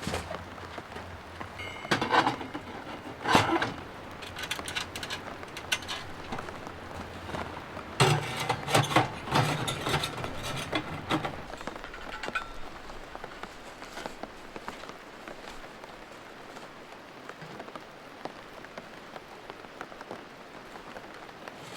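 Steady rain falling, with bursts of louder knocks and rustles about two and three seconds in, and a longer spell of them around the middle, before the rain carries on alone.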